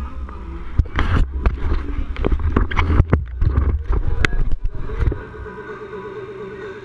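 Mountain bike rattling and knocking over rough trail, with heavy wind rumble on the microphone; about five seconds in it settles to a quieter, steadier sound.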